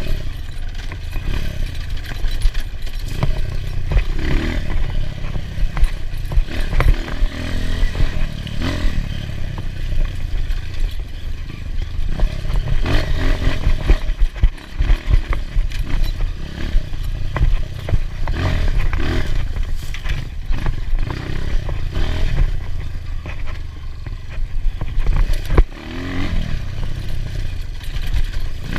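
Enduro dirt bike engine revving up and down over rough ground, with many clattering knocks and scrapes from the bike.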